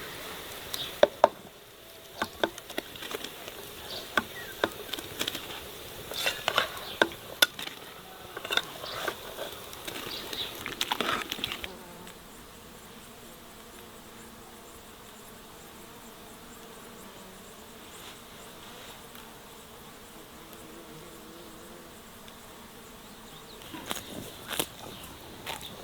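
Irregular sharp clicks and knocks for roughly the first half, then a faint, steady, wavering insect buzz; clicks start again near the end.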